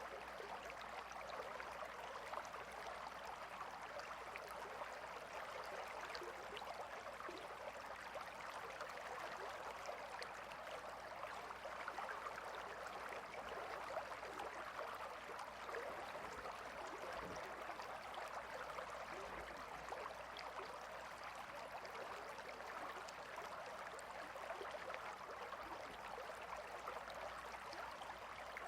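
Gentle river flowing: a steady, even rush of water with a fine babbling crackle that keeps on without change.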